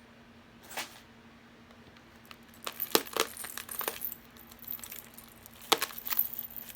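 Costume jewelry clinking and jangling as pieces are handled: a single clink about a second in, then two bursts of rattling clicks, one in the middle and one near the end.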